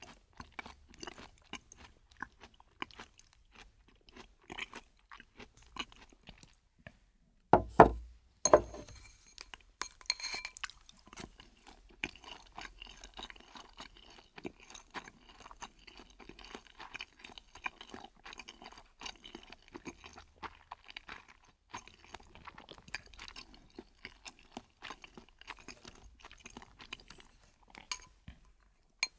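Close-miked chewing and crunching of fried chicken and noodles, with many quick mouth clicks. Two loud thumps come about eight seconds in.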